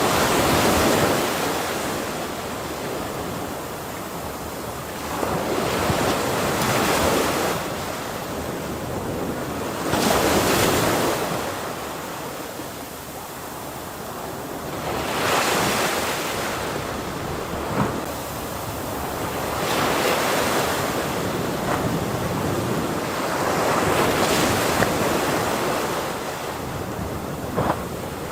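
Ocean waves breaking on a shore, the surf swelling and easing in repeated surges every few seconds over a steady wash.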